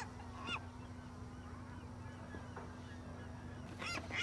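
Seagull squawks from the cartoon's soundtrack: one short call about half a second in, then a quick run of squawks near the end.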